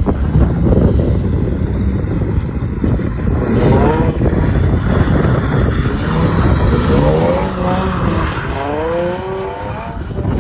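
Infiniti G35 coupe's 3.5-litre V6 revving hard as the car slides on wet pavement. The engine note climbs in pitch about four seconds in and again several times near the end.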